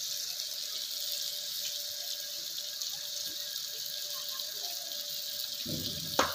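Chicken, potato and tomato masala sizzling steadily in a pot on a gas stove, an even high hiss. A single sharp click near the end.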